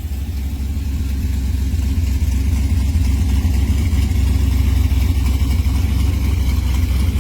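Car engine idling steadily with a deep, even rumble, settling after a rev.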